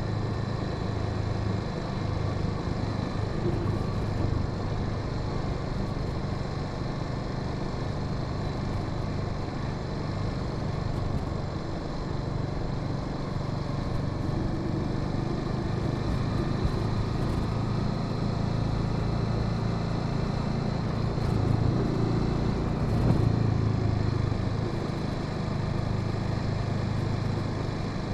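Honda Sahara 300's single-cylinder engine running steadily as the motorcycle is ridden, swelling slightly for a moment about three quarters of the way through.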